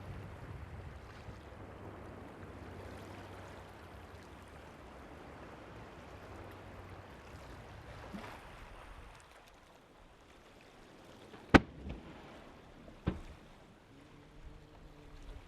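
Steady surf and wind noise with a faint low hum, then two sharp firework explosions about a second and a half apart in the last few seconds; the first is much the louder.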